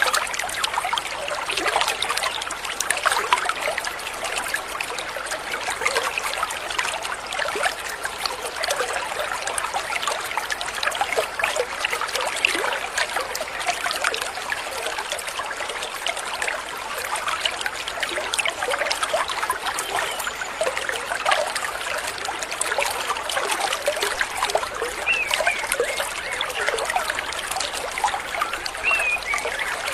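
A stream trickling and babbling steadily over stones, with a couple of brief bird chirps near the end.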